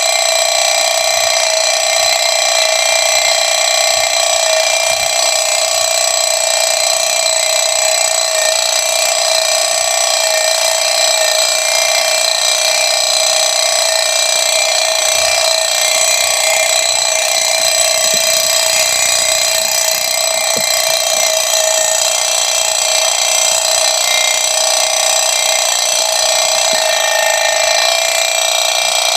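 Dense, unbroken night chorus of insects, crickets and katydids, in rice paddies: a steady high-pitched chirring made of many held tones.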